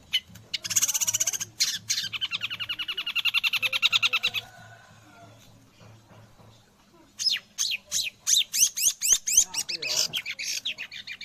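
Long-tailed shrike (cendet) singing a song filled with mimicked white-rumped shama phrases: fast runs of sharp repeated notes, about ten a second, a pause of a couple of seconds about halfway, then another run of quick falling notes.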